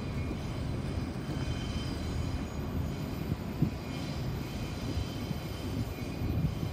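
Steady rumble of a train passing at a distance, with faint high squealing tones that come and go.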